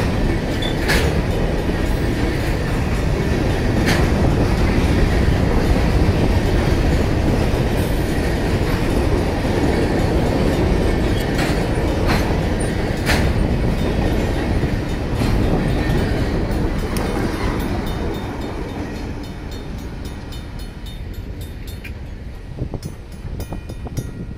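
Loaded covered hopper cars of a freight train rolling past a level crossing, a steady rumble with the wheels clacking over rail joints. The rumble fades in the last few seconds as the end of the train goes by, leaving the crossing bells ringing.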